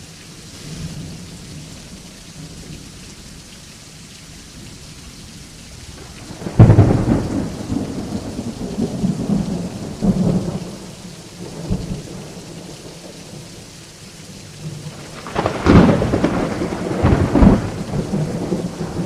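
Steady rain with thunder: a sudden loud thunderclap about a third of the way in that rolls off in rumbles, then another close, loud crack of thunder with further rumbling near the end.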